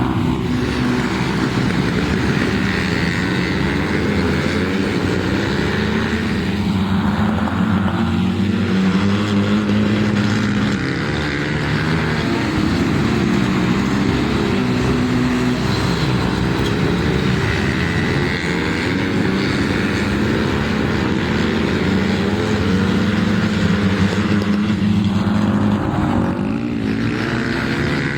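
Flat track racing motorcycles running laps, several engines revving together with pitch rising and falling as the bikes pass.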